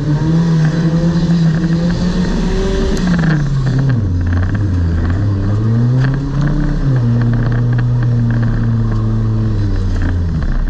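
Demolition derby car's engine heard from inside the car, revving as it drives. Engine speed holds high, drops sharply about four seconds in, climbs briefly, then settles at a steadier lower speed.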